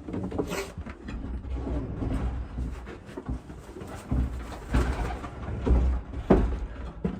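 Domestic pigeons cooing in a loft, mixed with rustling, low rumbling and irregular knocks from birds being handled; the sharpest knocks come about half a second in, near five seconds and past six seconds.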